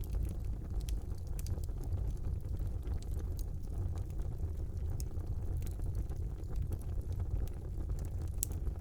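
Fire burning in a fireplace: a steady low rumble of flames with scattered sharp crackles and pops throughout.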